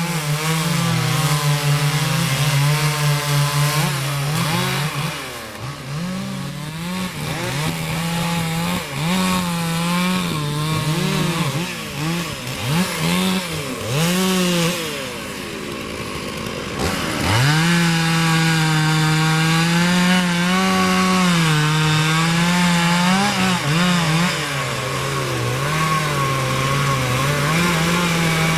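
Two-stroke chainsaw running at high revs while cutting wood, its pitch wavering as the chain bogs in the cut. The revs drop sharply a little past halfway, then the saw revs up again.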